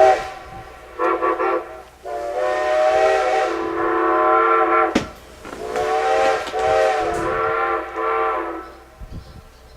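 Steam locomotive's chime whistle blown in a series of blasts: two short ones, then two long ones. A sharp click falls between the long blasts.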